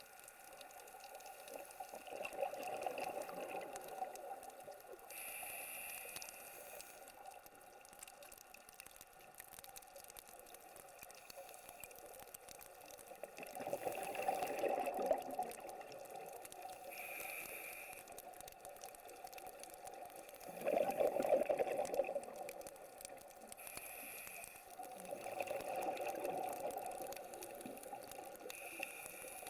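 Scuba diver breathing through a regulator underwater: a short hiss on each inhale, followed by a longer bubbling rush of exhaled air. About four breaths, several seconds apart.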